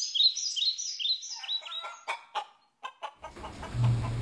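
Birds chirping: a rapid run of short chirps that slide down in pitch, giving way about two seconds in to a few short, sharp clucking calls. Near the end these are replaced by room noise with a brief low hum.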